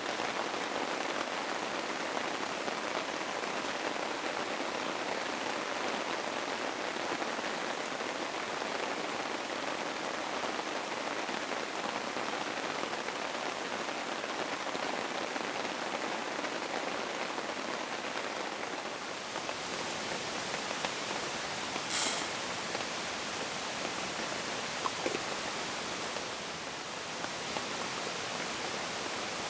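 Steady rain falling, an even hiss of drops throughout, with one sharp click about three-quarters of the way through.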